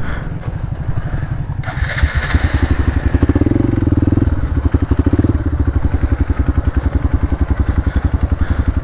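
Off-road motorcycle engine running at low revs with a fast, even beat of exhaust pulses, getting louder about two seconds in.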